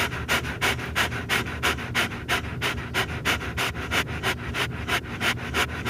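A dog panting fast and steadily, about five breaths a second.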